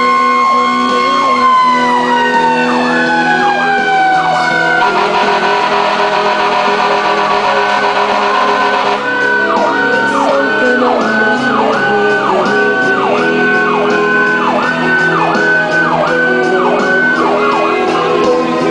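Fire engine sirens: a Federal Signal PA300 electronic siren yelping in quick up-and-down sweeps, about two a second, with a faster, denser warble for a few seconds in the middle. Under it a Federal Q2B mechanical siren winds slowly down in pitch, twice.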